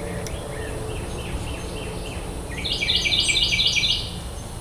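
A songbird singing a quick run of about eight repeated, downward-slurred whistled notes lasting about a second and a half, past the middle, after a few faint chirps. Under it runs a steady low hum.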